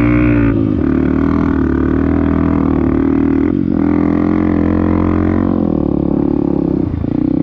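Off-road vehicle engine droning steadily under load in sand. Its pitch dips and settles again a few times, as with gear changes or the throttle being let off and reapplied.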